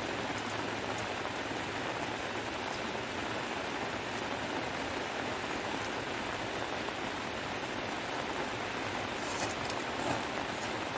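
Heavy rain falling steadily, an even hiss. Near the end there are two brief taps.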